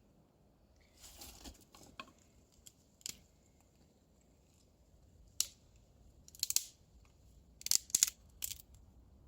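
A series of short, sharp scrapes and snaps from getting a campfire going. A few are scattered through the first half, and a quicker, louder run of scrapes comes near the end.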